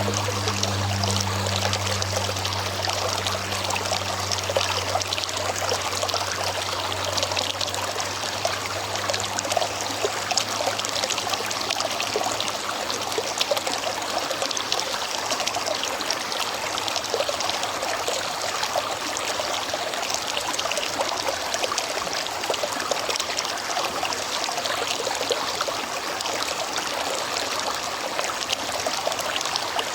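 A small river runs steadily over stones, a continuous rushing and trickling of water. A low steady hum underneath fades out over the first several seconds.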